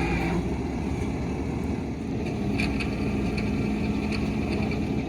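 Steady vehicle engine and road noise with a low hum, and a few faint clicks in the second half.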